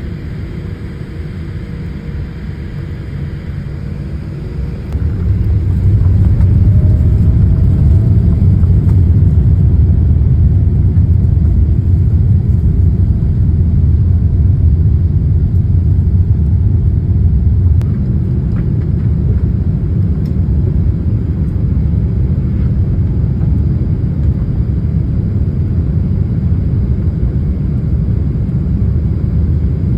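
Cabin of a Boeing 787-8 Dreamliner on its takeoff run: a low rumble jumps up sharply about five seconds in as takeoff power comes on, stays loud, and eases a little about eighteen seconds in.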